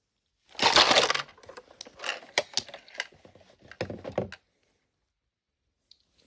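Small plastic toy pieces and packaging being handled, crackling and clicking, in a loud dense burst that starts about half a second in and thins to separate clicks before stopping about four seconds in.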